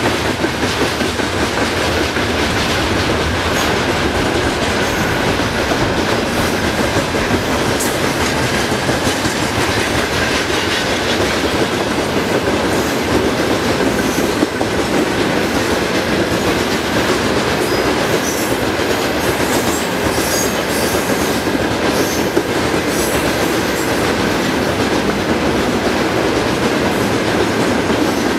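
A train running past close by at speed, its wheels rumbling and clattering steadily over the rails, with a faint steady whine above it.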